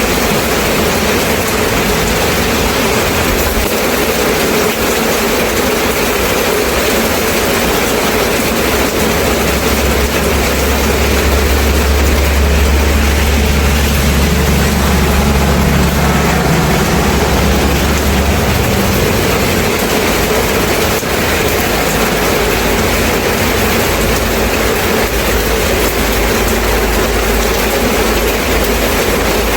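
Steady rain falling, an even hiss. A deep low rumble swells up about nine seconds in and fades out around eighteen seconds.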